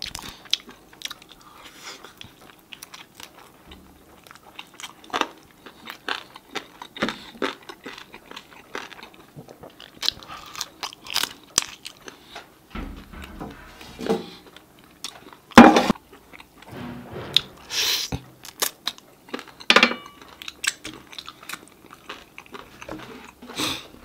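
Close-miked chewing and biting into sauce-coated fried chicken wings eaten off the bone: irregular crunchy bites and chewing, with a few louder bites, the loudest about two-thirds of the way through.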